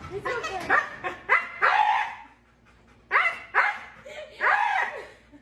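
A dog barking and yipping repeatedly: short, pitched calls that rise and fall, with a pause in the middle.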